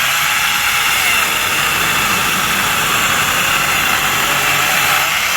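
Bosch angle grinder fitted with a mini chainsaw attachment, running steadily as it saws through a thick tree trunk, a loud even whine with a faint tone that wavers in pitch.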